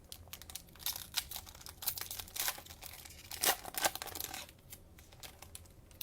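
A cellophane wrapper of a Mosaic cello pack of trading cards being torn open and crinkled by hand, a run of crackly rips and rustles that dies down after about four seconds.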